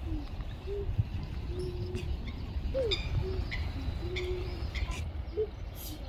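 Birds calling at a pond: a series of short, soft low cooing notes, some held flat and some sliding in pitch, with a few brief high chirps from small birds over a steady low rumble.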